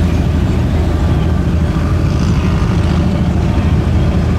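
Motor vehicle engine running steadily at an even pitch, loud and unchanging.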